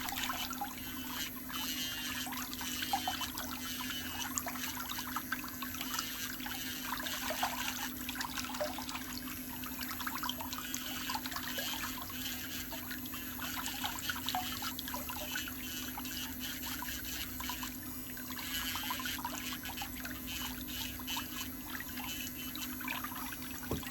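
Electric nail file running with a steady hum while its bit grinds the surface of a big toenail, a continuous gritty crackle.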